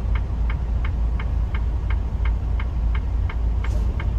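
Semi-truck's turn signal clicking steadily, about three clicks a second, over the low rumble of its diesel engine inside the cab during a left turn.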